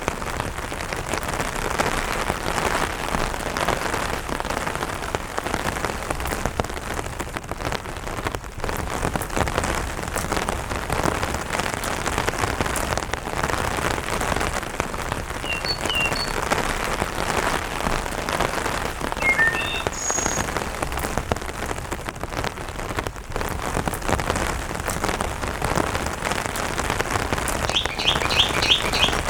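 Steady light rain pattering on an umbrella, dense small drops with no letup. A bird calls a few short notes in the middle, and a quick run of about eight repeated chirps comes near the end.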